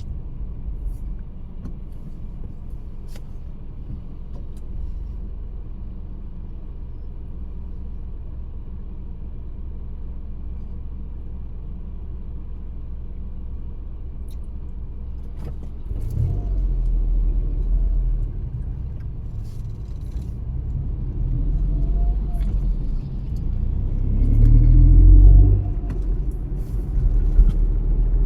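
A car driving on the road: a steady low rumble of engine and road noise that gets louder about halfway through, with the engine note rising near the end.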